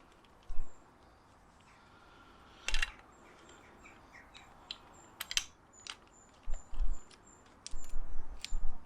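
Scattered sharp clicks and knocks of tools and metal parts as a VW T4 ignition lock cylinder is worked out and refitted, coming in quick succession in the second half. Faint short high chirps repeat in the background.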